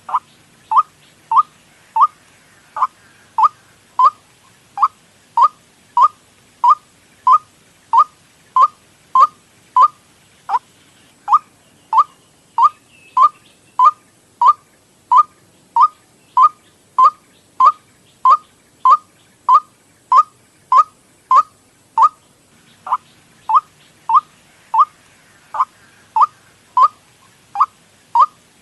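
White-breasted waterhen (ruak-ruak) call played as a bird lure: short calls that each drop in pitch, repeated evenly about one and a half times a second.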